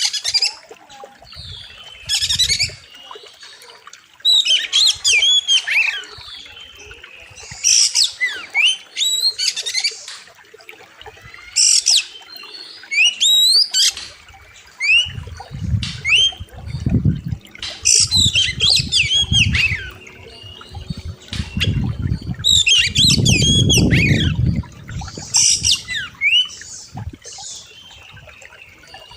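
Oriental magpie-robin (kacer) singing loud, sharp phrases of rapid rising and falling whistles and harsher notes, in bursts about every two seconds. A low rumbling noise comes and goes under the song in the second half.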